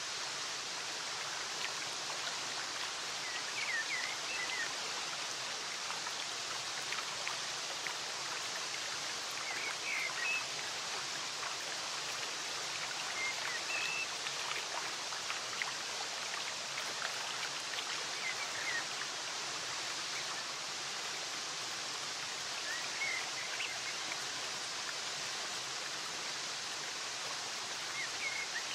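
Flowing stream water rushing steadily, with faint, brief bird chirps breaking in every few seconds.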